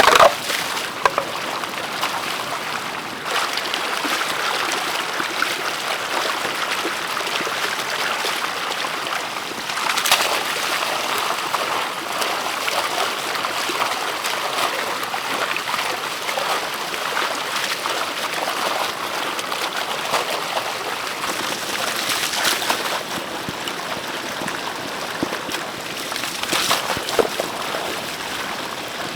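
Steady running or trickling water, with brief louder surges about a third of the way in and twice more later on.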